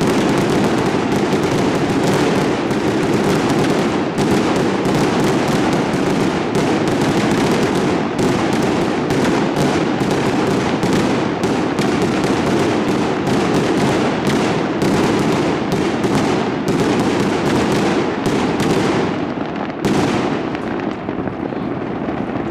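Fireworks display: a dense, continuous barrage of rapid bangs and crackles, thinning out near the end with one last loud bang.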